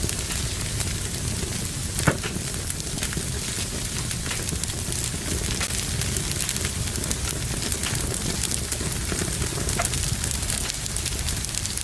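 Wood fire burning in a fireplace: a steady crackling hiss with many small pops, and one sharp, louder pop about two seconds in.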